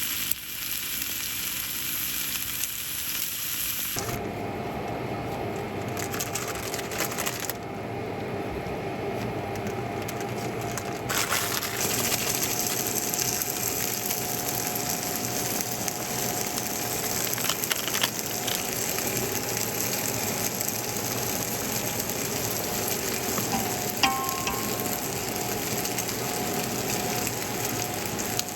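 Food sizzling and frying in a pan, with a single sharp click about four seconds before the end.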